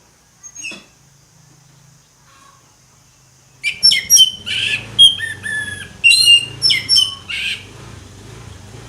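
Orange-headed thrush singing: a couple of faint short notes, then a loud, varied phrase of clear whistles and quick sliding notes that starts about a third of the way in and stops about a second before the end.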